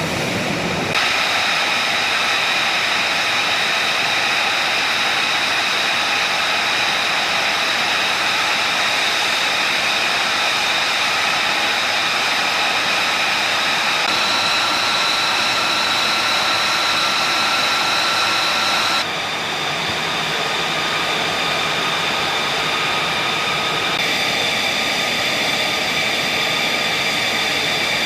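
F-35B Lightning II's jet engine running steadily: a loud rushing noise with a high, steady whine, the whine shifting pitch abruptly a few times.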